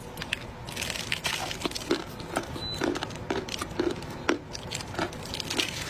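Close-up chewing of a mouthful of dry clay: a run of crunches, about two strong ones a second, with moist creamy mouth sounds between them.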